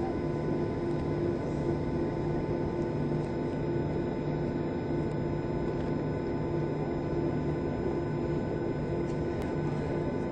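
Steady cabin drone inside a Boeing 737-700 airliner, a noisy rush with a constant low hum and a few steady tones, holding level without rising or falling.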